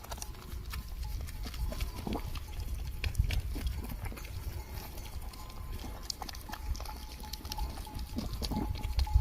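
Occasional short animal sounds over a low rumble, with scattered clicks; a faint steady tone comes in about two-thirds of the way through.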